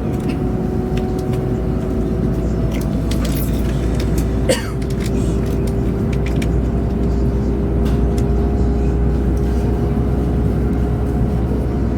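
Steady rumble of a Chinese high-speed train running at speed, heard inside the passenger cabin, with a constant two-note hum over it. A single brief knock sounds about four and a half seconds in.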